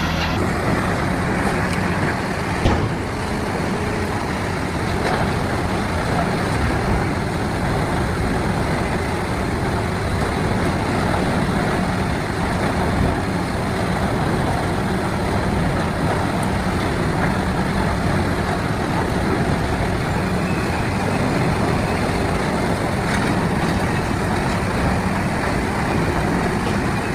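Large industrial wood chipper or grinder running hard, a steady loud churning noise from the machine and the wood it is shredding, with a single knock about three seconds in.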